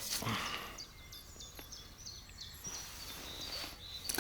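Birds singing with short high chirps and trills, heard faintly over a steady low background rumble.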